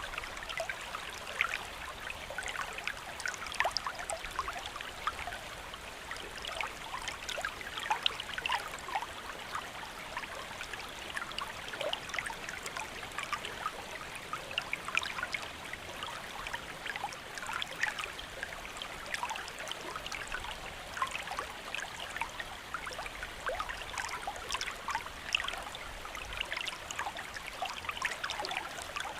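Steady rain, a dense, even pattering of many small drops that goes on without a break.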